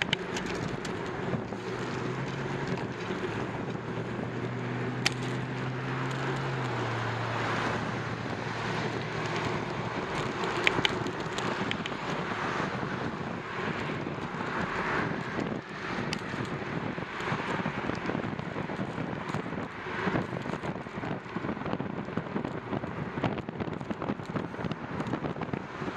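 Wind buffeting the microphone of a camera on a moving bicycle, a steady rushing noise with a few sharp clicks. A low hum sits under it for the first several seconds, dropping in pitch about seven seconds in before fading.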